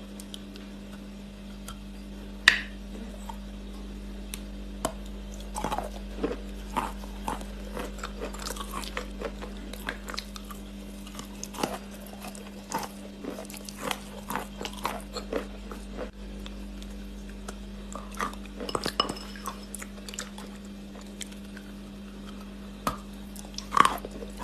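Close-up biting and chewing of crunchy multani mitti (fuller's earth clay), with irregular crisp crackles throughout and sharper snaps about two and a half seconds in and near the end. A steady low hum runs underneath.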